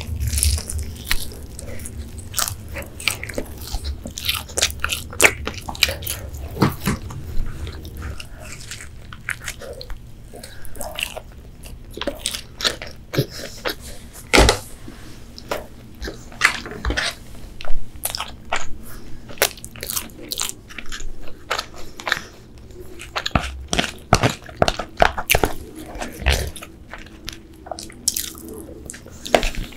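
Close-up chewing of crispy fried chicken, the breading crackling in many sharp, irregular crunches.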